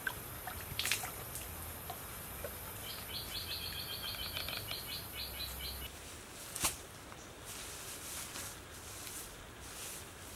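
Forest ambience of a steady high insect hiss and a bird's quick run of repeated chirps, about four a second, that stops abruptly about six seconds in. Then comes a single sharp knock, followed by intermittent rustling of dry straw being spread by hand on the ground.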